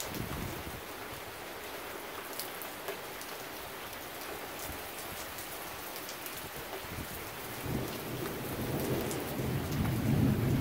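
Heavy thunderstorm rain falling steadily, with a low rumble of thunder rising near the end.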